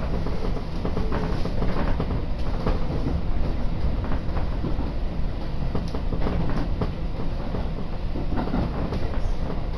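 Tobu Railway commuter train running, heard from inside the car: a steady rumble of the wheels on the rails with scattered faint clicks.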